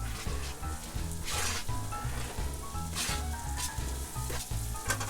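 Onions sizzling in hot coconut oil and butter in a pan, sautéing, with louder surges of hiss about a second and a half in, at three seconds and near the end. Soft acoustic guitar music plays underneath.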